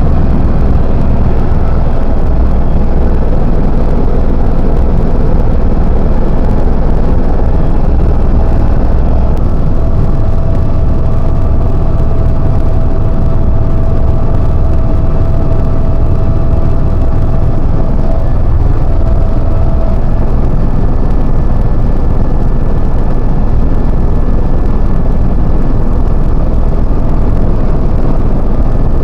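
Helicopter in flight, heard from inside the cabin: a loud, steady drone of engine and rotor with a few faint steady whining tones over it.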